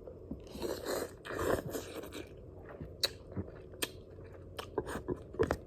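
A person chewing food close to the microphone, with mouth noises and a few sharp clicks; the food is noodles.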